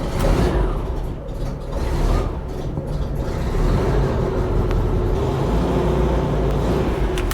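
Air-cooled VW bus flat-four engine idling steadily just after being started following reassembly. It runs noisily, which the owner puts down to its aftermarket cam, solid rocker shafts and heavy-duty pushrods.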